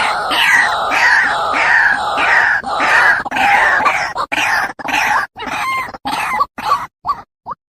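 A bird giving repeated calls, each one falling in pitch, about two a second. After about five seconds they break into shorter, sparser chirps.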